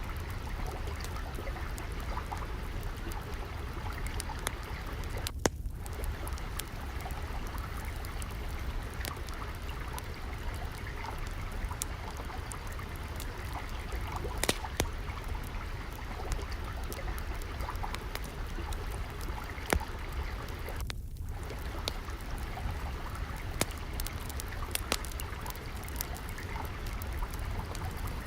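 Steady trickling, flowing water with scattered sharp crackles and a few louder pops from a wood fire.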